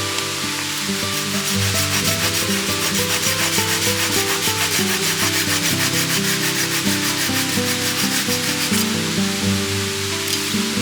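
Rhythmic rasping or rubbing strokes, fast and even, heaviest through the middle, over background music with sustained notes.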